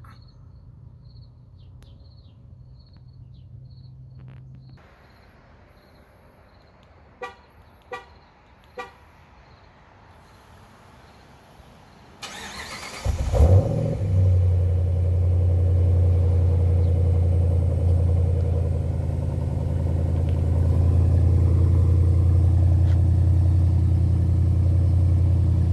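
Three short electronic beeps, then the starter cranks and a Ram 1500's 5.7 L Hemi V8 catches about halfway through and settles into a loud, steady idle through BBK long-tube headers, an X-pipe and MagnaFlow mufflers in a true dual exhaust.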